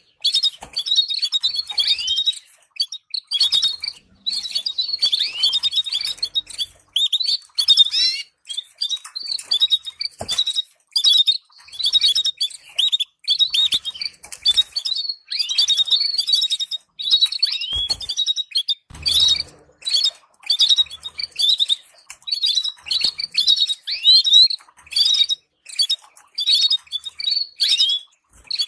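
Domestic canary singing: fast chirps, trills and rising and falling whistled notes in phrases of a second or two, with short pauses between them. It is training song played to stimulate caged canaries to sing.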